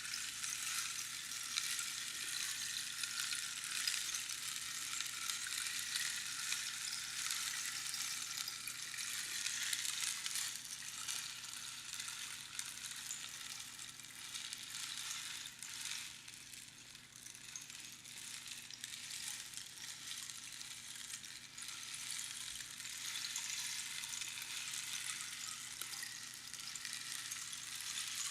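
Rainstick: small pebbles trickling down through the hollow tube past the pins inside, a continuous dense rattle that sounds like falling rain. It swells and eases slowly, a little softer in the middle and building again near the end.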